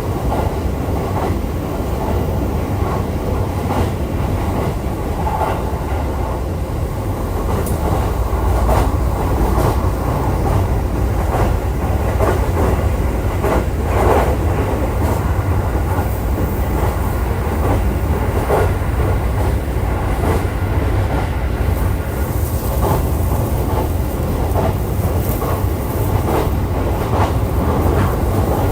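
Running noise of a JR East E531 series electric train at speed, heard inside the passenger car: a steady, loud low rumble of wheels on rail, with a few clicks from the track.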